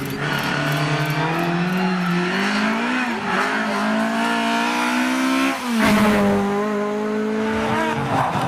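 Lada 2107 rally car's engine accelerating hard, revs climbing through the gears with a shift about three seconds in. About five and a half seconds in the revs drop sharply with a loud burst of noise, then the engine holds at a steady pitch.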